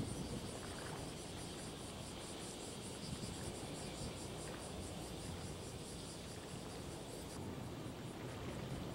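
Insects chirping in a rhythmic, high-pitched pulse over a steady low rumble; the chirping stops about seven seconds in.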